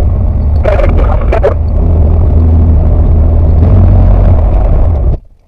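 Loud, steady low drone of a Tecnam P92 ultralight's engine and airframe noise heard inside the cockpit, with a few short sharp bursts about a second in. It cuts off abruptly about five seconds in.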